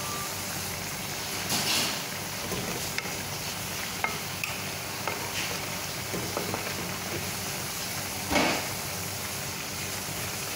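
Bitter melon and egg sizzling in a stainless steel pan, a steady frying hiss. A wooden spatula stirs and scrapes through the food in two louder strokes, about 2 seconds in and near the end, with a few light clicks between.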